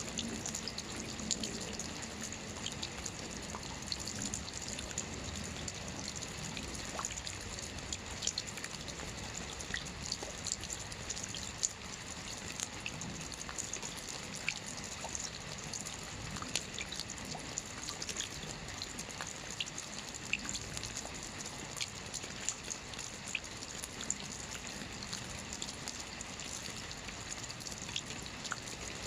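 Steady light rain: a continuous hiss with many small, scattered drip and splash ticks.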